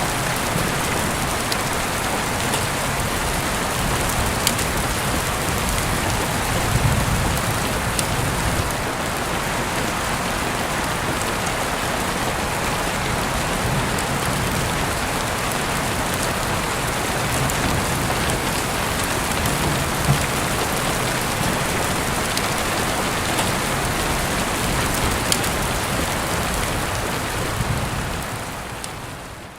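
Steady heavy rain falling on surfaces, with a few faint sharp clicks now and then, fading out over the last couple of seconds.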